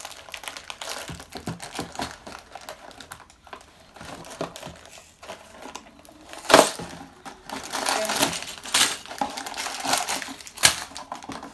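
Plastic Lego pieces being handled and pressed together: a run of small sharp clicks and clatters with some crinkling of plastic, the loudest click about six and a half seconds in.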